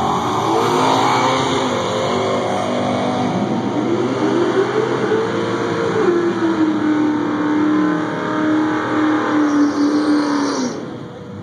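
Drag car's engine revving up in stages, then held at high revs for about four seconds before cutting off sharply near the end, typical of a burnout at the starting line.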